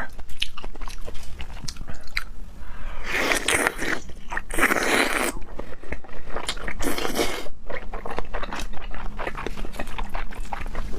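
Close-miked chewing of raw salmon slices: wet smacking and many small mouth clicks, with two longer, louder wet bursts about three and five seconds in.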